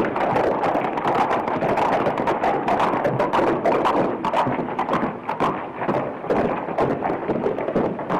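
Horses' hooves clip-clopping as they are ridden, a quick, uneven run of hoofbeats, with a music score underneath.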